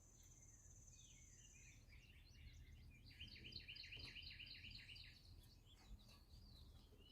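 Faint bird song: a high held note, then chirps and a trill of evenly repeated notes, about five a second.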